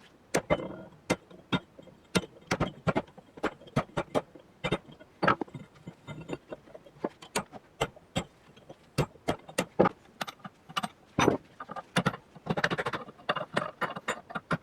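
Irregular sharp metallic clicks and knocks, a few a second, with a short stretch of scraping near the end: hand tools working on the rusty iron of an old hand-forged pick head.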